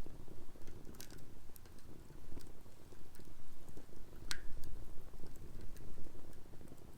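Wood fire burning in a fire pit, crackling with scattered sharp pops over a low, uneven rumble; the loudest pop comes about four seconds in.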